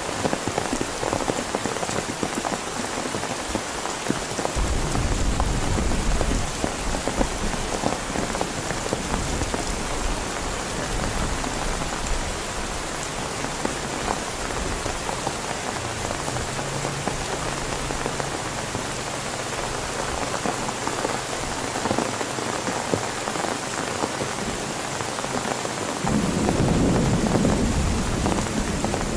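Heavy rain falling steadily on a tent, with low thunder rumbling from about five seconds in and again near the end.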